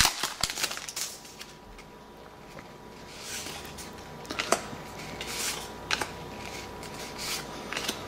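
Trading cards being handled and slid against one another, a soft rustling with a few sharp clicks, mostly at the start and again around the middle.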